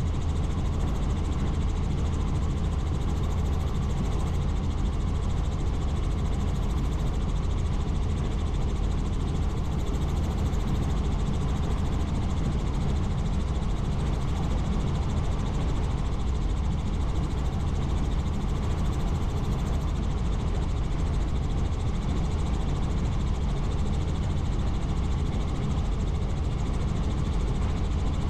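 Helicopter's engine and rotor running steadily in flight, a constant low drone with a dense hiss above it.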